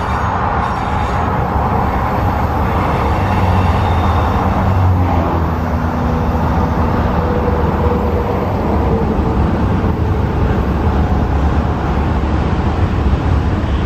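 Cars of a CSX manifest freight train, covered hoppers and tank cars, rolling past: a loud, steady rumble of steel wheels on the rails.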